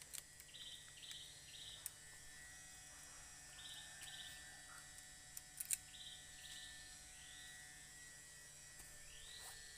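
Faint forest ambience: a bird's short, high, buzzy chirps repeated in pairs, and two rising call notes near the end. A few sharp crackles of footsteps on dry leaf litter.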